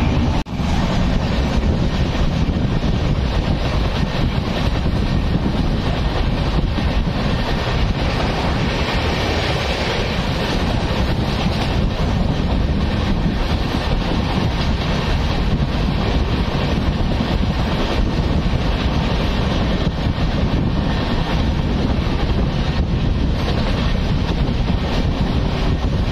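Steady running noise of a train under way, with wind buffeting the microphone.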